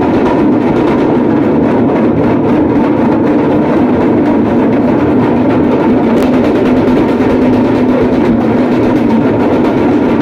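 A group of damrus, the small hourglass-shaped pellet drums of Shiva worship, played together in a fast, unbroken roll that stays steady in loudness.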